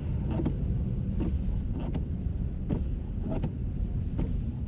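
Car engine rumbling steadily in the snow, with a short sharp swish or crunch repeating about every three-quarters of a second.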